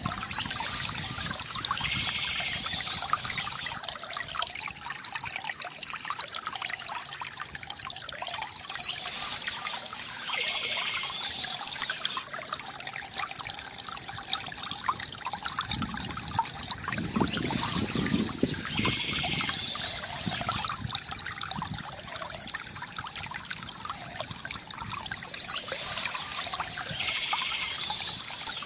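Small stream trickling and flowing steadily, with birdsong that recurs every eight or nine seconds over it.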